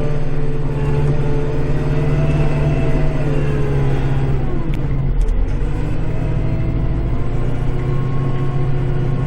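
Kubota tractor's diesel engine running steadily, heard from inside the cab. Its note drops for a moment about four seconds in, as if under load, then comes back up.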